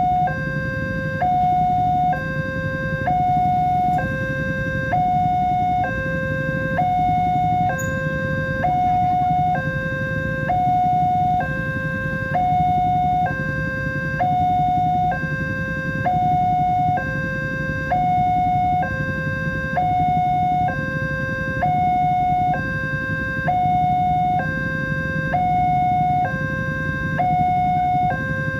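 Railway level-crossing warning alarm sounding its two-tone signal, a higher and a lower tone alternating evenly, each held just under a second, warning that a train is approaching and the barriers are down. A steady low rumble runs underneath.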